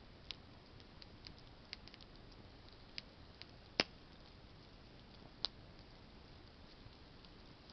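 Campfire of burning branches crackling: scattered sharp pops over a faint steady hiss, the loudest two about four and five and a half seconds in.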